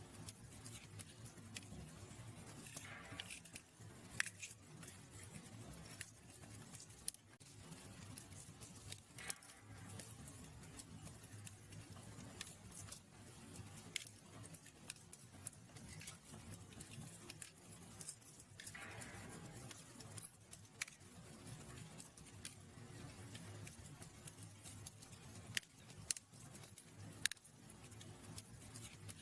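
Fire crackling in a fireplace: irregular sharp pops and snaps over a low steady rumble, with a short hiss twice.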